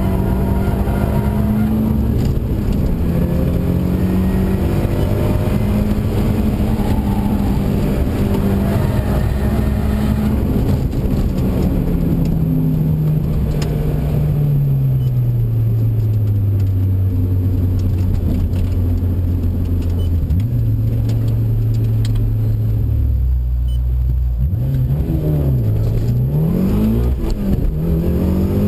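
Mitsubishi Lancer Evolution II's turbocharged four-cylinder engine heard from inside the car on track, held at high revs, then falling steadily as the car slows. Near the end the revs rise and fall quickly several times.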